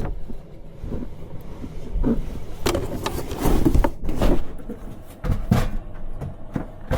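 Rummaging in a cramped space: gear and clothing rustle and objects knock irregularly as things are moved around and stowed under a bed.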